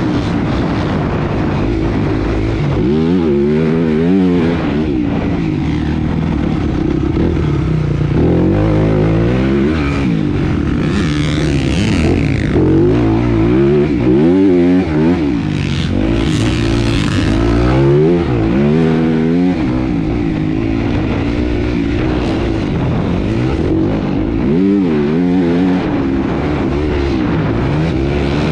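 Motocross bike engine running hard, its pitch climbing and dropping back again and again, with brief hissy bursts about 11 and 16 seconds in.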